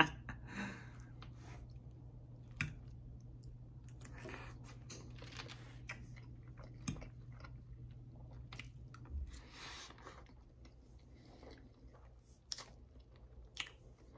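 Close-miked chewing of a mouthful of hash browns and eggs, with a few sharp clicks of a fork against the plate, over a faint steady low hum.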